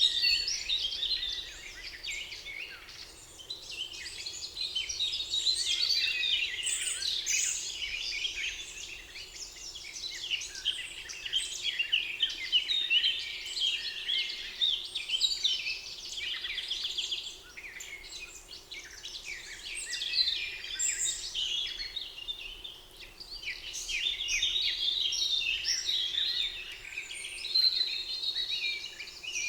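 Many songbirds singing at once in a dense chorus of overlapping chirps, whistles and trills, some rapid and buzzy, rising and falling in strength every few seconds.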